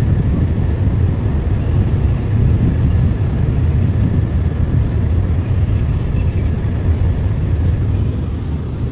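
Steady low rumble of tugboat diesel engines, running without a break and easing slightly near the end.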